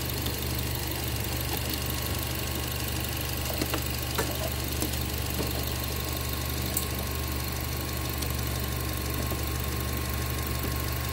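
Nissan Livina's engine idling steadily, with a few light clicks about 3.5, 4 and 7 seconds in as the plug of an aftermarket iForce throttle controller is handled and pushed into its socket.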